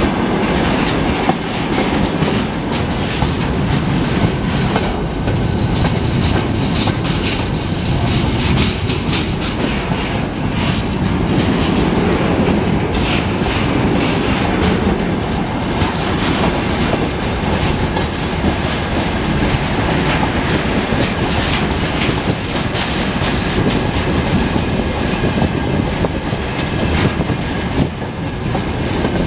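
Freight train wagons (tank cars, then open wagons) rolling past at close range: a steady, loud rumble of steel wheels with a constant clatter of clicks as the wheelsets cross rail joints.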